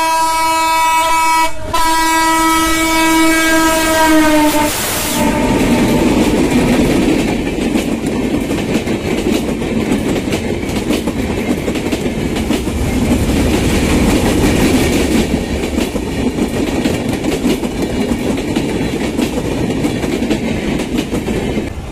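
Passenger train passing close by, its locomotive horn sounding two blasts that drop slightly in pitch as it goes by. The horn is followed by the steady rumble and clickety-clack of the coaches' wheels over the rail joints.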